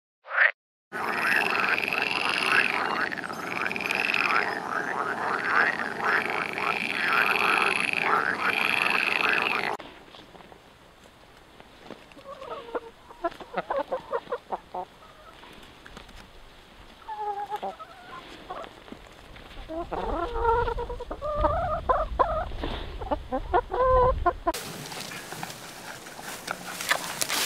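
A tree frog calling loudly over and over, a repeated croaking call about every second and a half. This gives way about ten seconds in to hens and a rooster clucking, faint at first and louder in the last few seconds.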